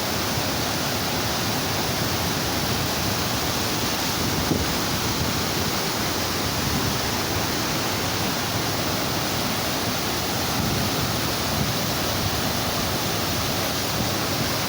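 Waterfall rushing: a steady, unbroken roar of falling water, even across all pitches.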